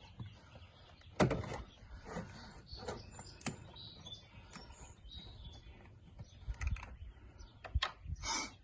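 Scattered clicks and knocks of plastic oil bottles and a funnel being handled while adding engine oil, with birds chirping faintly in the background.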